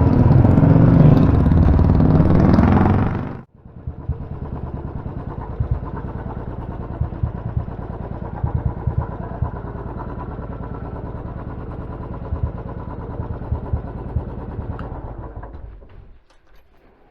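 Royal Enfield motorcycle engine running. A loud stretch cuts off abruptly about three and a half seconds in, then the engine runs more quietly with uneven low thumps, fading out near the end.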